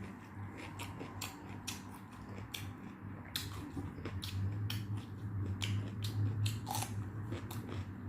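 Close-miked eating sounds: chewing and mouth clicks, a few a second and more frequent in the second half, over a steady low hum.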